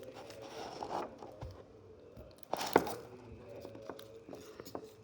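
Dry cereal crunching and crackling as it is handled, with one louder crunch close to three seconds in.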